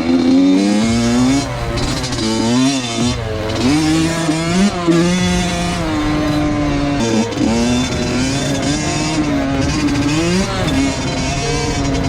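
Honda CR85 85cc two-stroke dirt bike engine being ridden hard, its pitch climbing and dropping again and again as the rider revs, shifts and backs off the throttle.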